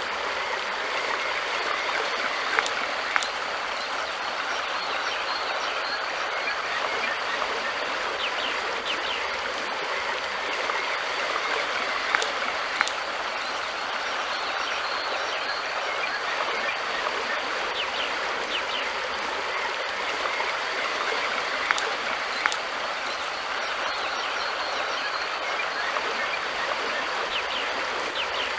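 River water flowing steadily, a continuous even rush. Three times, a pair of sharp clicks about half a second apart stands out over the flow.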